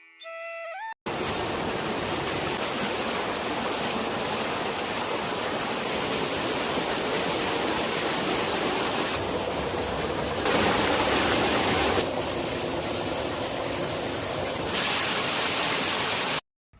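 Rushing water, a steady, loud noise of a stream or waterfall, stepping abruptly louder or quieter a few times before it cuts off near the end.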